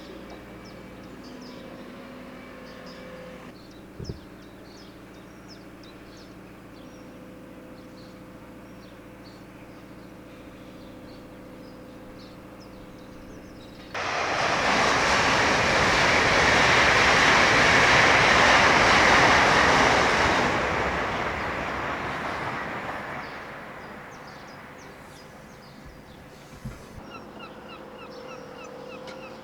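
A train passing through at speed: a loud rushing noise that starts suddenly about halfway through, holds for several seconds, then fades away. Faint bird chirps come before it.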